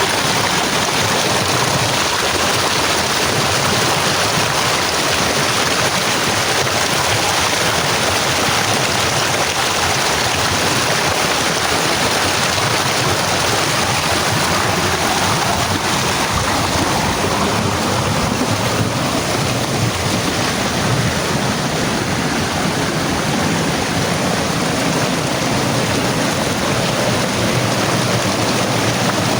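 Steady rushing of flowing water, as from a stream running over rocks.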